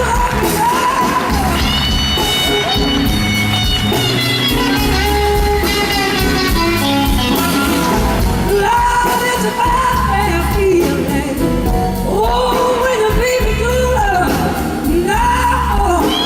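Blues band playing live: an electric guitar lead with gliding, bending notes over bass and drums.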